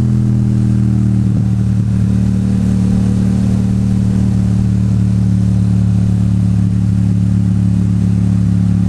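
Yamaha MT-07's parallel-twin engine running at steady, low revs as the motorcycle rolls along, its pitch holding level throughout.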